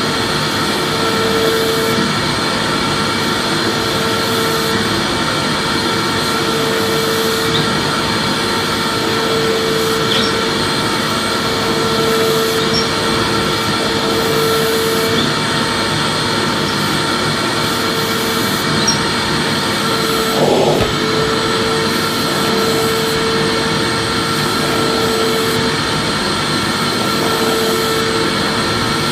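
Vacuum cleaner motor running steadily: an even rushing noise with a steady whine, one note of which swells and fades every second or two. A brief bump about two-thirds of the way through.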